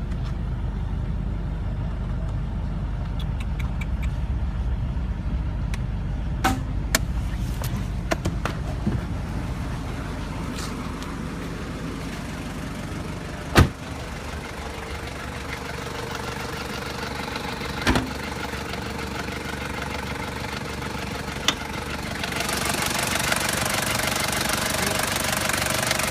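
Toyota 1KZ-TE 3.0 L turbo-diesel idling with a steady rumble, broken by a few sharp clicks and knocks, the loudest about 13 seconds in. The engine noise grows louder and fuller about 22 seconds in.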